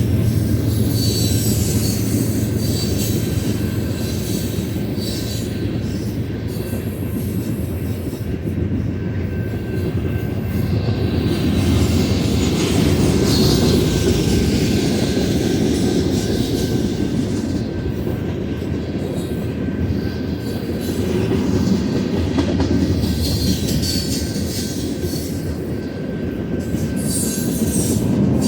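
Freight cars of a long Union Pacific manifest train rolling past: a steady rumble of steel wheels on rail, with brief wheel squeals now and then.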